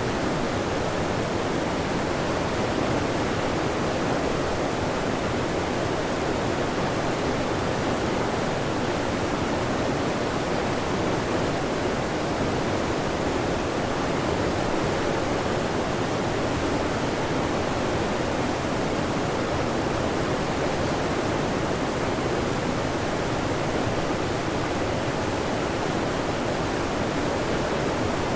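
Waterfall: falling water pouring steadily, a dense even rush with no breaks.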